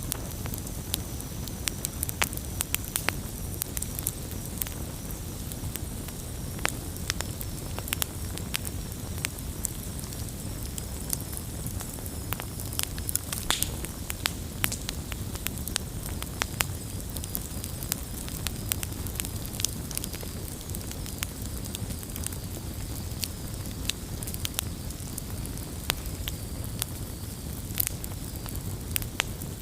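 Campfire of burning wood crackling, with frequent irregular sharp pops over a steady low rumble.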